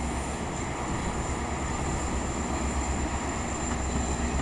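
GO Transit commuter train's diesel locomotive running with a steady low rumble.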